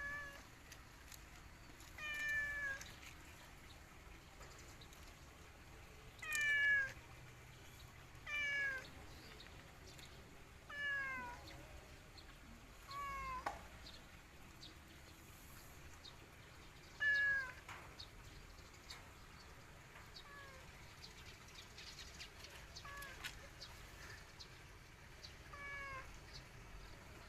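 A domestic cat meowing over and over: about ten separate meows a few seconds apart, each falling in pitch, the later ones fainter.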